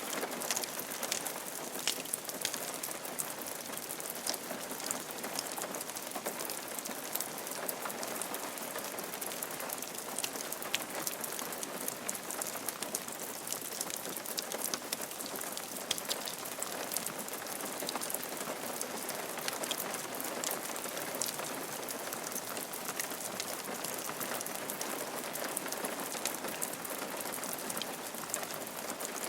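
Steady rain falling on a roof, an even hiss of rain with many separate drops ticking through it.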